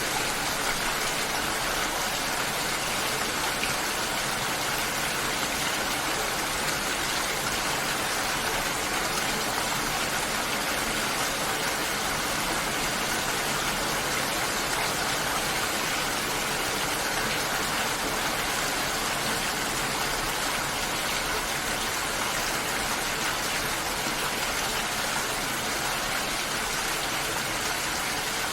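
Steady water sound: a dense, even hiss with no pauses or distinct drops standing out.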